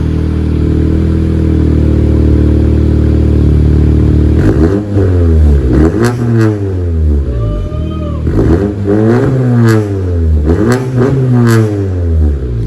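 2018 Honda Civic hatchback's turbocharged engine, with a catted downpipe and the muffler and resonator deleted, idling steadily and then revved in several quick blips from about four and a half seconds in, the exhaust note rising and falling with each one.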